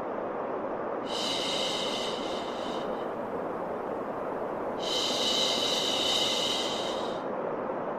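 Steady white noise with a long 'shhh' shushing sound laid over it twice, each lasting about two seconds, the second a little longer and louder.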